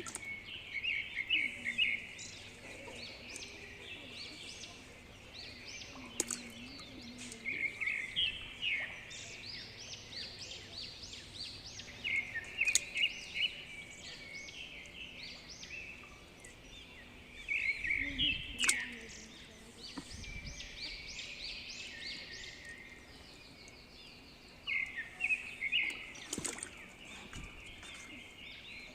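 A bird singing: short phrases of quick chirping notes, repeated every several seconds.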